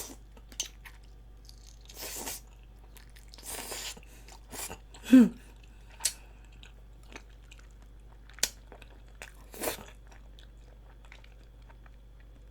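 A person eating a large chicken foot in spicy broth close to the microphone: intermittent biting, sucking and chewing, with wet smacks and a few sharp clicks. The loudest is a short burst about five seconds in with a brief low hum of the voice in it, and the eating sounds die away in the last couple of seconds.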